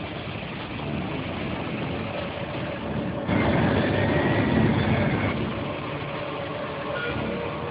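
Steady noise of road traffic, with vehicles running on a freeway; it grows louder about three seconds in.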